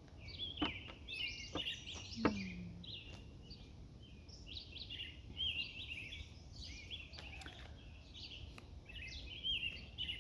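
Several wild birds singing at once, a dense chorus of chirps and warbling phrases that overlap throughout, with a few sharp clicks in the first two or three seconds.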